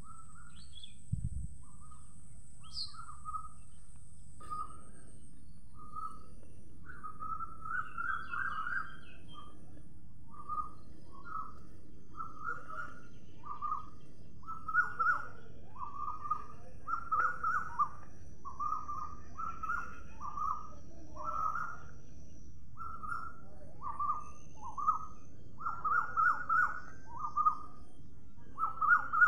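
Birds chirping: short calls repeated about once or twice a second, getting louder and busier in the second half, over a faint steady hiss.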